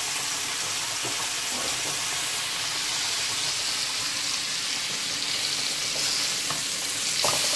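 Flour-coated chicken pieces deep-frying in a deep pot of oil, a steady bubbling sizzle. Near the end, beef burger patties sizzle in a skillet, with a few light scrapes as a spatula slides under them.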